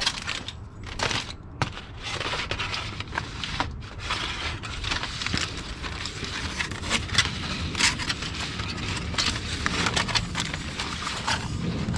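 Aluminium foil crinkling and rustling, with small scrapes and taps, as a foil-wrapped rack of ribs is turned over and handled.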